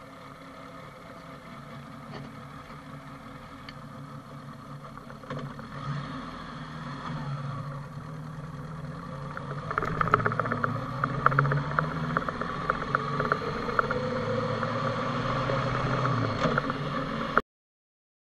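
Honda GL1100 sidecar rig's flat-four engine running as it drives along a street, heard from a handlebar-mounted camera. About ten seconds in it gets louder and rises in pitch as the bike speeds up, with many sharp rattling clicks. The sound stops suddenly near the end.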